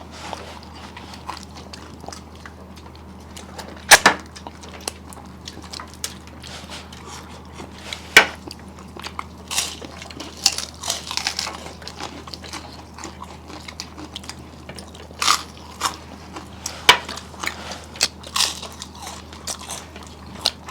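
Close-up eating sounds: chewing and crunching with scattered sharp clicks and knocks, the loudest about four and eight seconds in, over a steady low hum.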